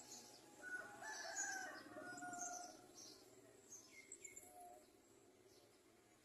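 Bird calls: a long, drawn-out pitched call from about one to three seconds in, with high thin chirps around it and two short falling chirps about four seconds in.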